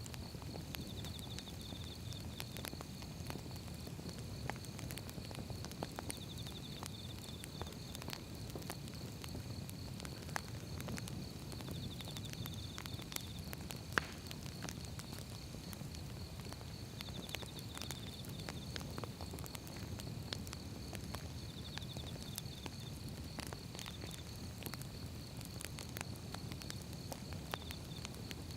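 Wood fire crackling, with scattered pops and snaps over a low rumble of burning logs. One sharp pop stands out about halfway through.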